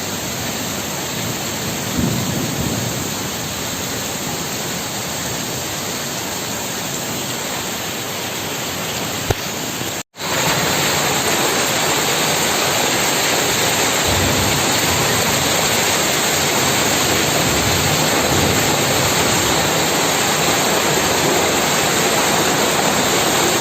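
Heavy rain pouring down steadily as an even hiss. About ten seconds in the sound cuts out for a moment, and the rain is louder after it.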